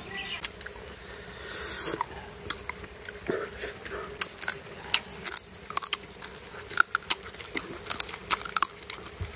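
People chewing chicken roast and rice eaten by hand: close, irregular wet chewing and smacking clicks, several a second, with a short hiss about one and a half seconds in.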